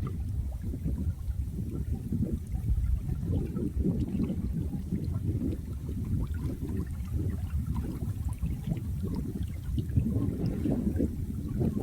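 Flowing water, a continuous low burbling and gurgling.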